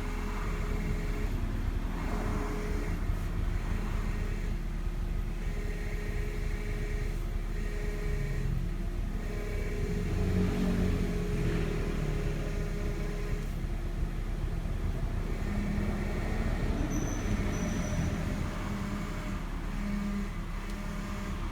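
Nissan Teana J32's engine running, with a whine that comes and goes over several seconds, typical of the power-steering pump as the steering wheel is turned; the car has heavy, noisy steering from leaking power-steering fluid.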